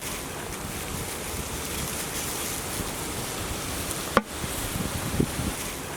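Steady rushing noise, with one sharp knock about four seconds in and a couple of brief ringing tones just after.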